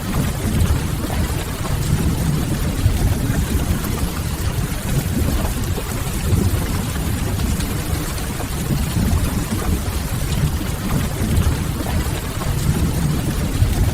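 Steady rain on a window, an even hiss over a deep low rumble, mixed with the faint crackle of a wood fire.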